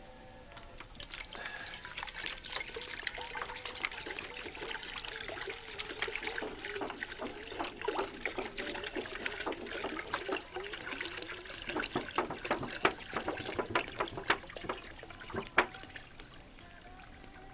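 About a gallon of water poured into a cast iron kettle, a splashing pour that builds in the first couple of seconds, runs on with uneven spatters and dies away about a second before the end.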